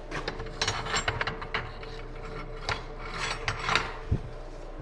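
Metal hand tools clicking and scraping in two flurries, with a single knock near the end: sockets being tried on and pulled off a nut to find the right size.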